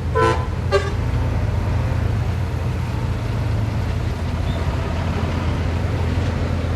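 Heavy diesel earthmoving machinery running steadily with a low drone. Two short horn toots sound within the first second.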